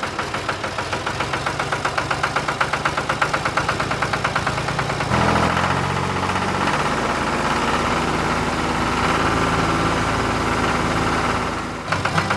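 Small tractor engine running with a rhythmic chug of about five beats a second, changing about five seconds in to a steadier, slightly louder note.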